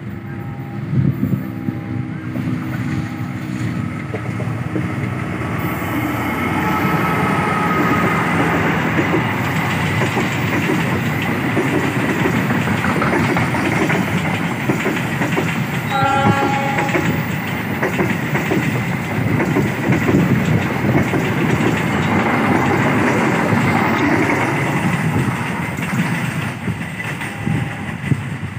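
Argo-class passenger train running past on the rails, its wheels clattering and rumbling, building up over the first few seconds, loudest through the middle and easing off near the end. A brief horn sounds about halfway through.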